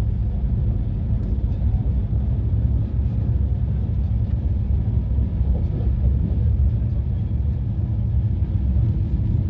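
Steady low rumble of a moving passenger train, heard from on board.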